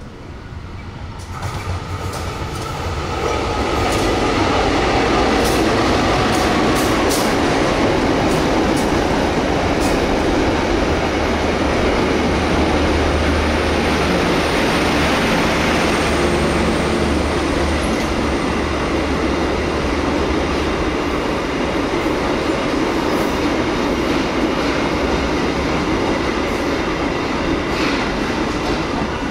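Passenger train coaches rolling past close by: a steady loud rumble and rattle of steel wheels on the rails, with scattered sharp clicks and a low drone underneath. It builds over the first few seconds and then holds steady, with a faint thin high whine through the middle.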